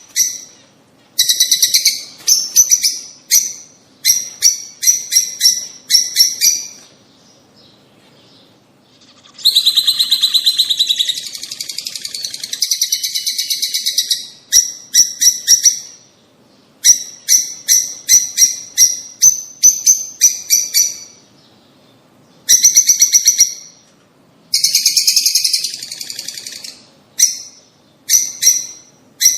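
Birds chirping in quick repeated trains of sharp, high chirps, with a short lull and then a stretch of dense, continuous chattering about ten seconds in.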